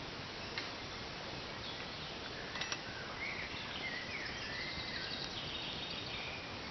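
Birds singing in short chirps and trills over a steady background hiss, with a couple of faint clicks.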